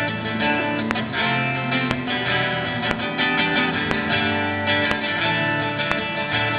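Acoustic guitar music, strummed and plucked, with a sharp tick about once a second keeping time.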